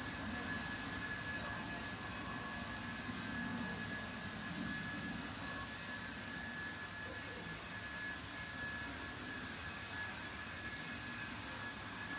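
Airbus A320 jet airliner's engines rumbling as it passes over and moves away, the rumble dimming after about five seconds. A short high chirp repeats about every second and a half over a faint steady high whine.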